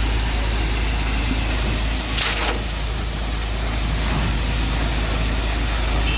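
Concrete boom pump truck's diesel engine running steadily with a deep hum, with one short hiss about two seconds in.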